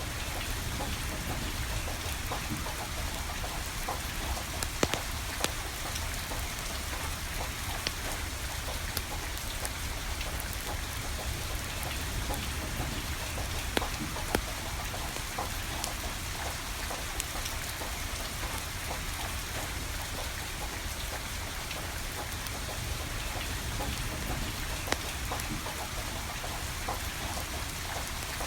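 Steady rain falling, with scattered sharp pops from burning firewood crackling.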